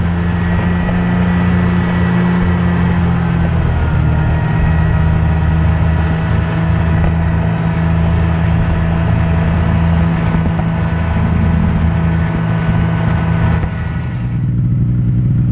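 Vehicle engine running steadily and loudly; about fourteen seconds in the higher part of the sound falls away, as if the throttle eases off, and a lower hum carries on.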